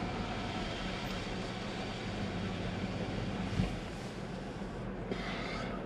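Car engine idling, heard from inside the cabin as a steady low hum and rumble, with a brief hiss near the end.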